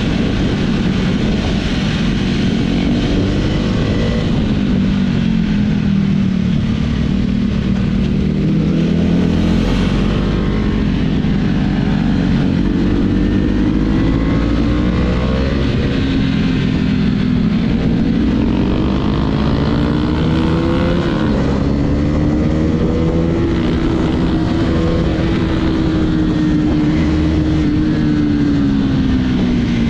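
Husqvarna Vitpilen's single-cylinder engine running under way, its pitch rising and falling with the throttle, held high for several seconds near the end before dropping.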